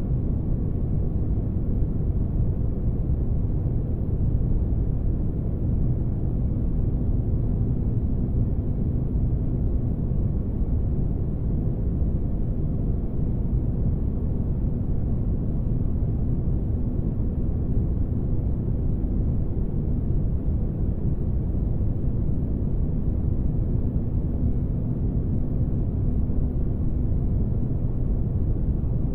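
Steady low spaceship-engine rumble of a sleep ambience track, with a faint hum running under the noise.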